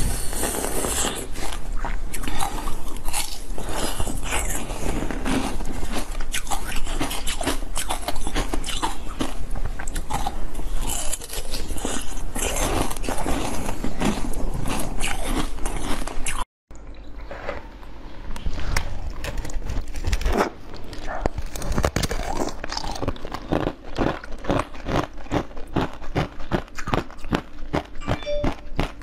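Close-miked eating of red jelly: repeated biting and chewing with many sharp, clicky mouth sounds. About halfway through the sound cuts out briefly and a different recording starts, with a faster run of sharp chewing clicks.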